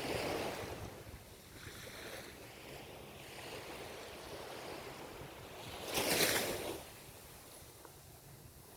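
Ocean waves breaking on a shore: a surge of surf at the start, a quieter wash through the middle, and another wave crashing about six seconds in.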